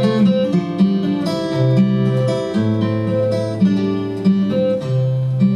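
Instrumental break in a song: acoustic guitar strumming sustained chords, with no singing.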